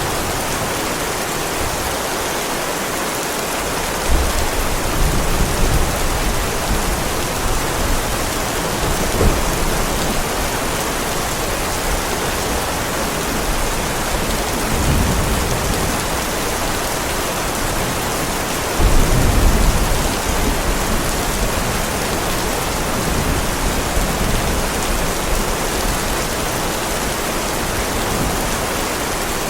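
Heavy rain falling steadily on a paved driveway. Low rumbles of thunder swell through it several times, the loudest about two-thirds of the way in.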